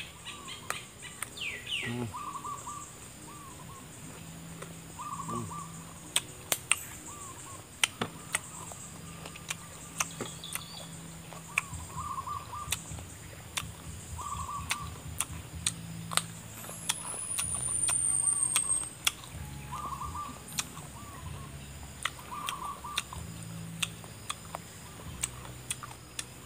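Close-up eating sounds of unripe banana: chewing with sharp mouth clicks and smacks scattered throughout. A bird calls in the background with short repeated notes every few seconds.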